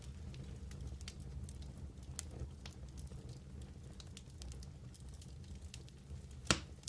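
Wood fire burning in a fireplace: a steady low rumble under scattered small crackles and snaps, with one sharp, louder pop near the end.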